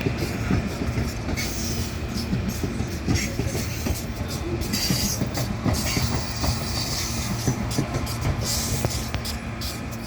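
Electric commuter train running through a station, with a steady low rumble and irregular clicking and clattering of wheels over the rails.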